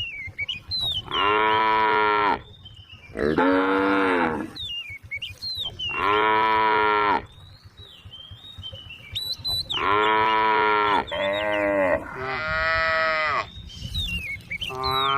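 Cows mooing over and over, about seven calls of a second or so each, coming one after another with short gaps between them.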